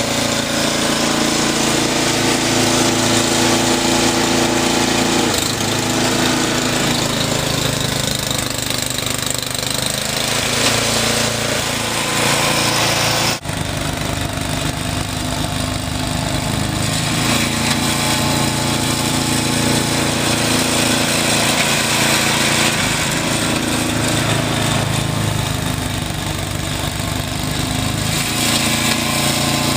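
Snowblower engine running steadily while clearing a deep snowdrift. Its pitch shifts now and then, and there is a very brief drop-out about thirteen seconds in.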